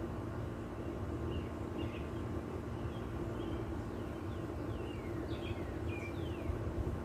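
Birds calling with short, downward-sliding whistles and chirps, more of them in the second half, over a steady low hum.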